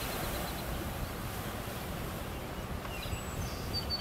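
Steady outdoor noise with low wind rumble on the microphone, and a bird chirping a few times near the end.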